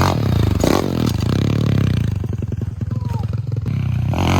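Small pit bike engine running.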